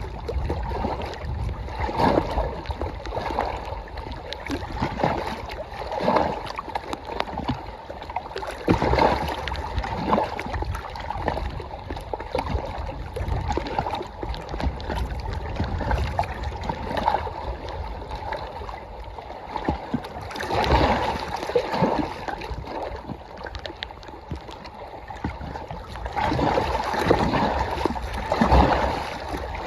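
Small wind-driven waves lapping and slapping irregularly against the lakeshore, with the low rumble of strong wind buffeting the microphone.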